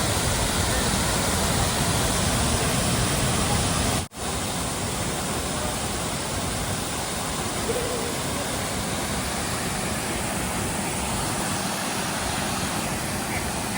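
Spearfish Falls pouring down with good spray: a steady, even rush of falling water, with a brief dropout about four seconds in.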